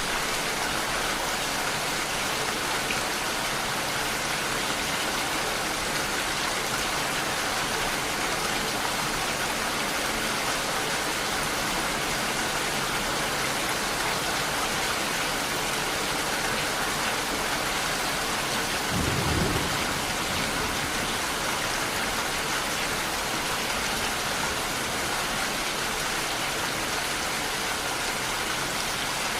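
Steady rainfall, an even hiss of rain on surfaces, with one brief low thud about two-thirds of the way through.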